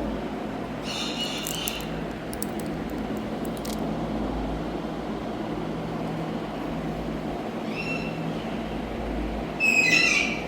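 Indian ringneck parrot giving short high calls: one about a second in, another near eight seconds and the loudest near the end, with a few faint clicks between, over a steady background hum.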